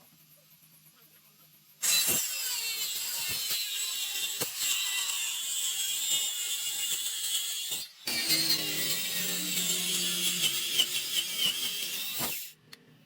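A woodworking tool working timber in two stretches of steady, hissy, high-pitched cutting noise with a wavering whine. The stretches last about six and four seconds, each cut off abruptly, after a near-silent first two seconds.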